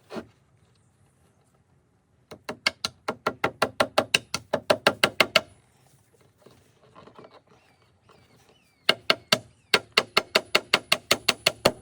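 Hammer driving small finishing nails into wood: two runs of quick, even taps, about seven a second, each lasting around three seconds, with a pause between.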